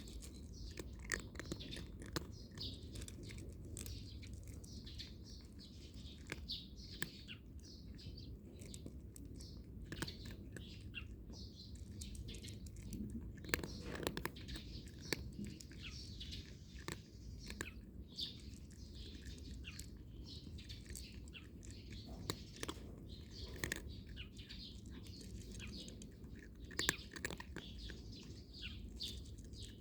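A cat crunching dry kibble, with sharp crunches scattered through, while small birds chirp steadily in the background.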